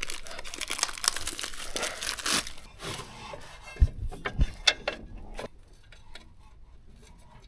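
Crinkling, rustling handling noise for about three seconds, then a few sharp knocks and clicks, then it goes quiet.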